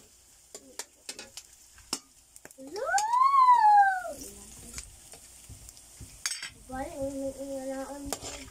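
Chopped longganisa and onions frying in a wok, with a metal spatula stirring and clicking against the pan. About three seconds in comes a loud call that rises then falls in pitch, and near the end a steady pitched tone is held for about a second and a half.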